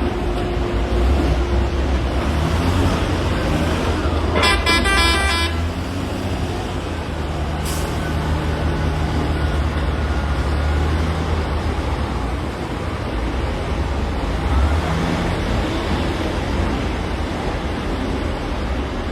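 Heavy diesel quarry machinery running with a steady low drone. About four seconds in, a horn sounds for about a second.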